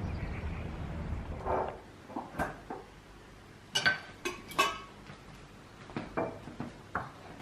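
Glass candle jars being handled and set down, clinking and knocking against each other in a string of separate sharp clinks, the loudest cluster a little past the middle. Before them, a low steady rumble stops about two seconds in.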